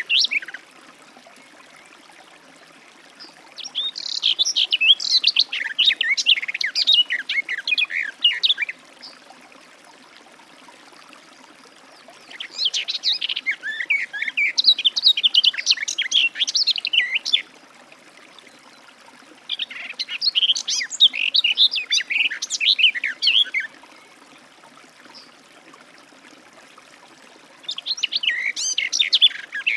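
Garden warbler singing: four long, rapid, warbling phrases of about four to five seconds each, separated by pauses of a few seconds.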